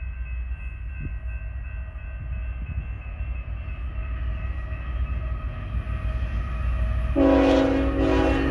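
BNSF freight train approaching, its low diesel rumble slowly growing louder. About seven seconds in the locomotive's air horn sounds loudly, a chord of several notes.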